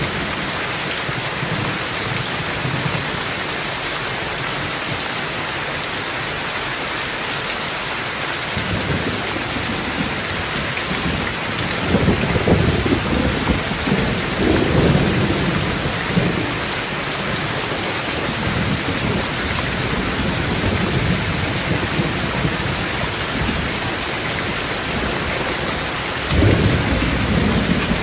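Steady heavy rain with thunder rumbling underneath. The rumble builds about a third of the way in and rolls loudest in the middle, then a fresh thunderclap sets in near the end.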